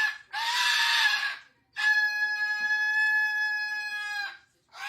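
Macaw screaming: two short, harsh squawks, then one long, steady, drawn-out call lasting about two and a half seconds.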